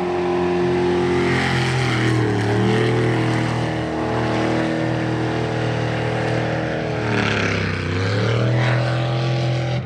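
Jet sprint boat engine running hard at high revs. The revs drop briefly and climb back twice, about two seconds in and again near the end, as the throttle is eased and reopened through turns on the course.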